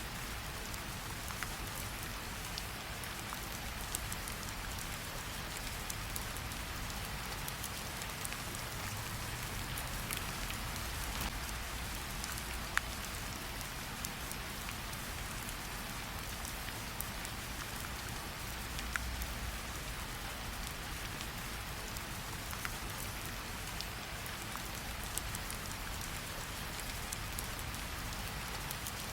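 Steady rain falling, with occasional sharp pops from a crackling campfire mixed in.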